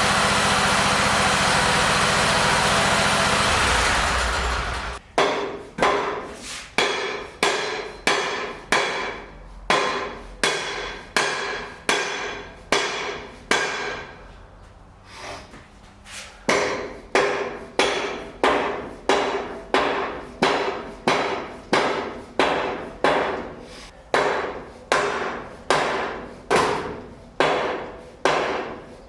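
A steady engine-like running noise stops about five seconds in. It is followed by a long run of evenly paced hammer blows, each with a short ringing tail, about one and a half to two a second, with a brief pause in the middle.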